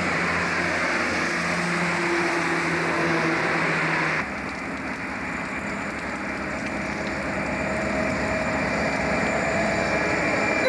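A two-car diesel railcar running past. About four seconds in, the sound changes sharply to an up coal train approaching behind 81 class diesel-electric locomotives, EMD two-stroke V16s. Their engines and the rumble of the train grow slowly louder.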